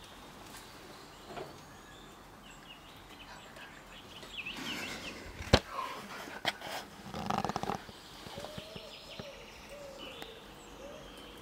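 Birds chirping over a quiet outdoor background, with a single sharp knock a little past halfway and a short stretch of rustling just after it.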